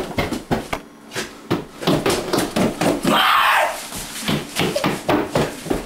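Footsteps thudding on stairs, a quick irregular run of knocks, with a loud noisy burst about three seconds in.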